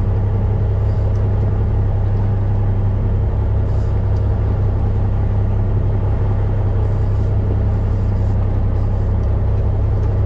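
Fishing boat's engine running steadily: a constant low hum that holds the same speed throughout.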